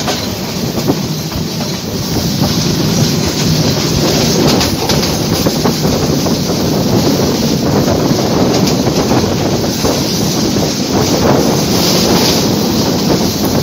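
Train running along the track, heard through an open carriage window: a steady rumble of wheels on the rails with irregular clicks and clatter from the wheels.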